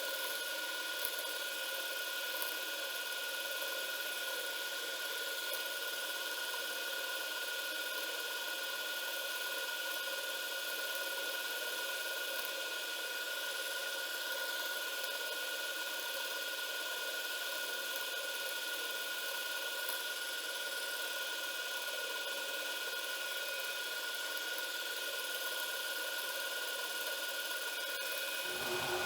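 Home-built CNC router's spindle running with a steady high whine while a compression end mill cuts MDF. Just before the end the whine cuts off and gives way to a lower, different hum.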